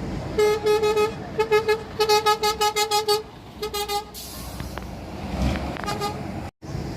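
Truck horn sounding in a rapid series of short blasts at one pitch for about three and a half seconds, then one more short blast.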